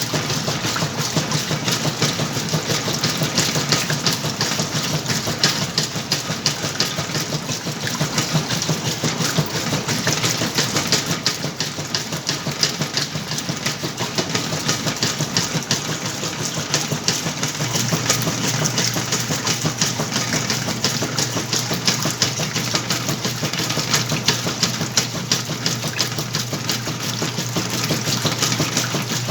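Whirlpool washing machine running its wash cycle on a load of clothes: a steady motor hum under fast, continuous churning. The low hum steps down in pitch about two-thirds of the way through.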